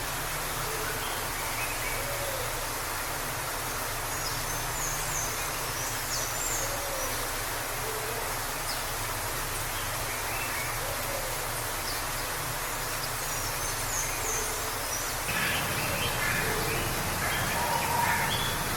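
Waterfall with a steady rush of falling water, and birds chirping faintly a few times over it. More bird calls come in near the end.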